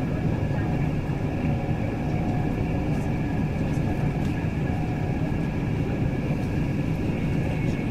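Express passenger train running at speed, heard from inside the coach: a steady rumble of wheels on rail with a faint, steady high-pitched whine over it and a few light ticks.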